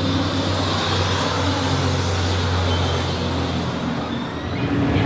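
A motor vehicle engine running close by, a steady low hum under a wash of road noise, fading away a little under four seconds in.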